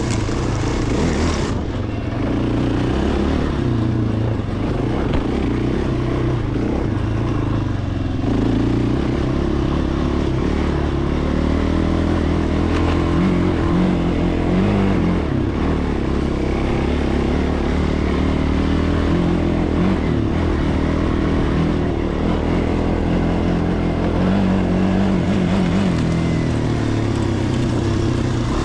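Small off-road vehicle engine running continuously, the throttle opening and closing so the engine note rises and falls repeatedly.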